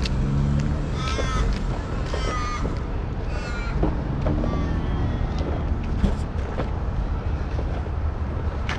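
A crow cawing three times, each call drawn out, over a steady low rumble.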